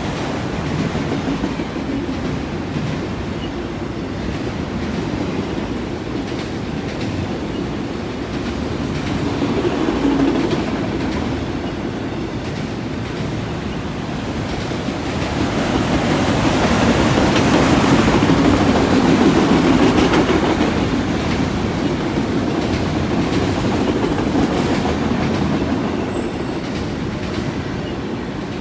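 Freight train cars rolling past on the track, wheels clicking over rail joints, with a swell in loudness for several seconds in the middle.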